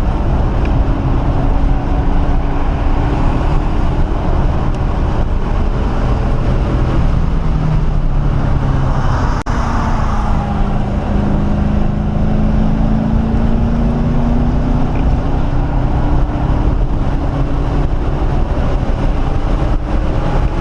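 1997 SVT Cobra Mustang's 4.6-litre DOHC V8 heard from inside the cabin at speed on a race track, with tyre and road noise. The engine note drops about nine seconds in, then rises steadily for the rest of the stretch as the car accelerates.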